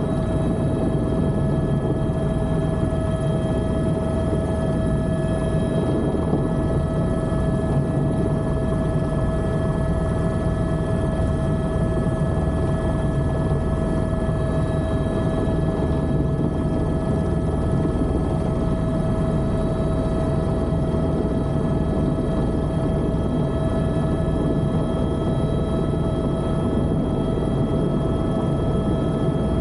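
Helicopter in flight: a steady, unchanging rumble of engine and rotor with a steady whine over it.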